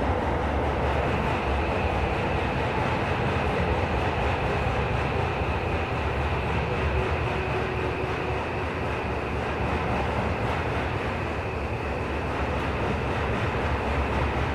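Interior running sound of a Tokyo Metro 17000-series subway train cruising in a tunnel: a steady rumble of wheels on rail with a faint steady whine above it.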